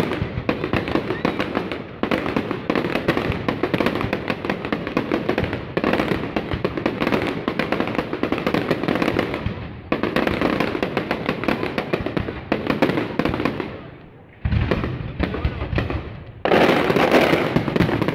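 Aerial fireworks display: gold crackling shells going off in dense, rapid crackles. The crackle comes in waves that break off and start again every few seconds, with a sharp burst with a deep thud about three-quarters of the way through and the loudest crackling near the end.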